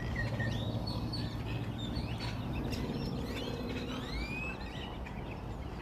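Several songbirds chirping and calling: short chirps and quick rising and falling whistles, many overlapping, over a steady low hum.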